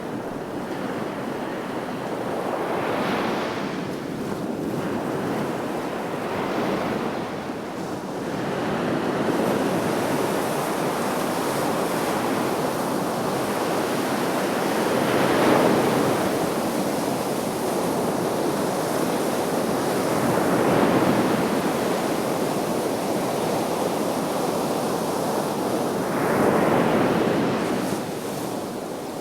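Sea waves breaking on the shore: a continuous rush of surf that swells up five times, every four to eight seconds, as each wave breaks and washes in.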